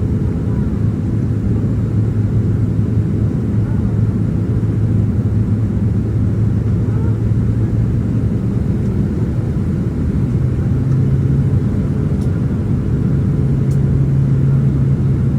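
Cabin noise of a Boeing 767-300ER on approach: a steady low drone of engines and airflow. The engine hum shifts slightly higher in pitch about ten seconds in.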